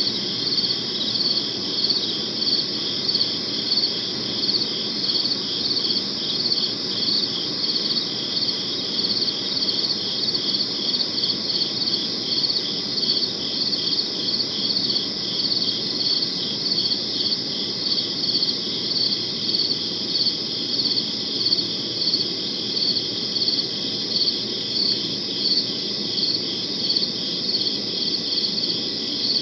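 Crickets chirping steadily in an even rhythm, about two chirps a second, over a faint low background hiss.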